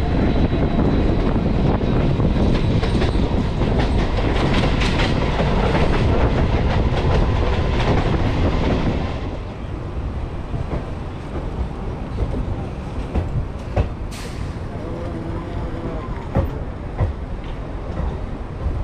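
MEMU passenger train's wheels running on the rails, loud at first. After about nine seconds it turns to a quieter rumble with separate clicks and knocks over rail joints and points as the train rolls slowly into a station.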